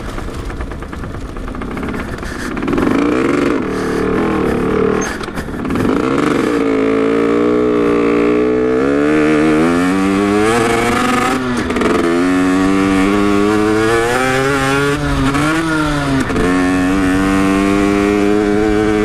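Rieju MRT 50's 50 cc two-stroke engine revving hard under way, its high buzzing note climbing in pitch and falling back about four times as it pulls.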